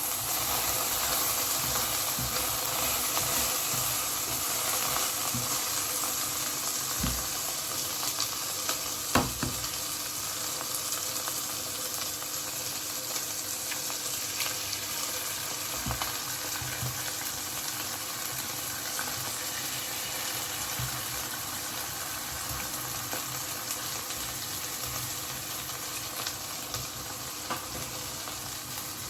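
Chicken sizzling steadily in a hot non-stick frying pan, with a few knocks of a cooking utensil against the pan.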